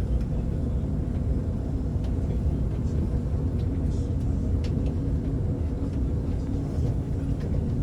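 Passenger train running, a steady low rumble with a steady hum and a few faint ticks.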